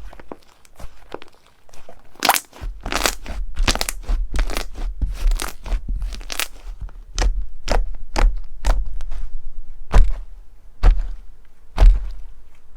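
Slime being squeezed and pressed by hand, giving a dense, irregular run of crunching, crackling pops. It starts softly with a few small clicks and becomes loud about two seconds in, with low bumps from the handling underneath.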